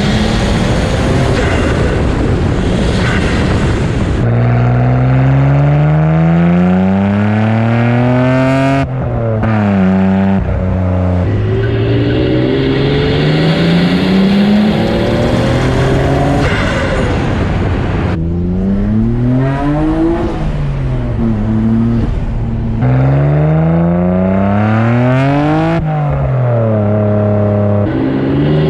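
1992 Nissan Skyline R32 GT-R's twin-turbo RB26DETT straight-six, running through an aftermarket exhaust with pod filters. It is driven hard, climbing in pitch under acceleration several times, and each climb breaks off in a sudden drop at a gear change or lift off the throttle.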